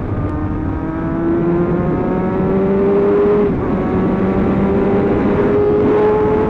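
Sport bike engine accelerating, its pitch climbing steadily, with a quick upshift about three and a half seconds in before it climbs again. Wind noise rushes over the microphone underneath.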